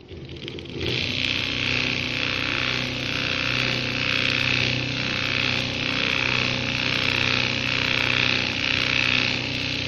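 Electronic sewing machine running steadily at speed, stitching continuously for about nine seconds, starting about a second in, with a steady low hum and a slow, regular pulsing in its higher clatter.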